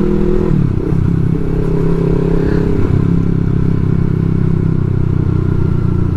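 Yamaha R3's parallel-twin engine running under way, its note rising slightly, dropping sharply about half a second in, then climbing slowly and holding steady.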